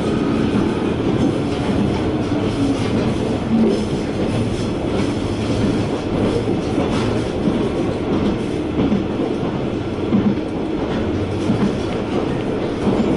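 Sankō Line KiHa 120 diesel railcar running along the line, heard from inside the car: steady running noise with light wheel clatter over the rail joints.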